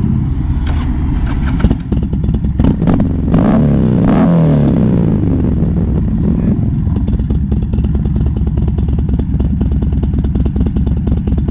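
Motorcycle engine running, with a sharp knock just under two seconds in, then revved up and back down over a couple of seconds before settling into a rapid, even idle.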